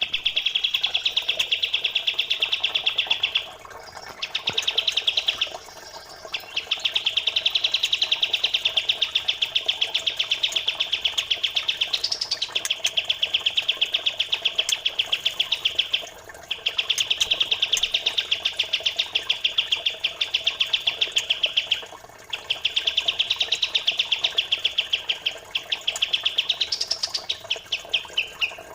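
Songbird singing long, fast, evenly pulsed high chirping trills in several phrases of a few seconds each with brief gaps, a rapid masteran song used to train competition birds. A faint trickle of flowing water runs underneath.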